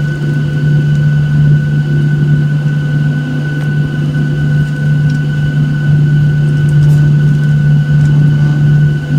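Boeing 737-800's CFM56 jet engines heard from inside the cabin: a loud, steady drone with a constant low hum and a steady high whine.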